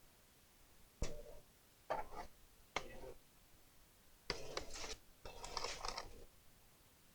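Handling sounds on a workbench: three sharp clicks or taps about a second apart, then two short stretches of scraping and rustling.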